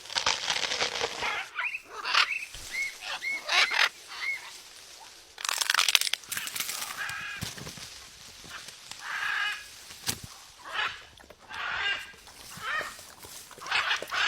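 Ring-necked parakeet calling: a string of short squawks and chirps, some with quick upward-bending notes.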